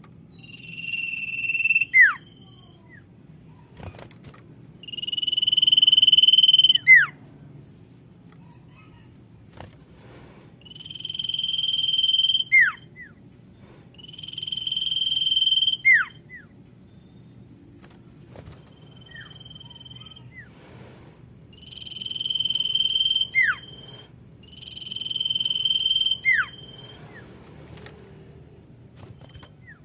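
Female common iora (sirtu) calling: a long drawn-out whistle that swells in loudness and ends in a quick falling note, repeated about every four to five seconds, some seven times. A faint low hum runs underneath.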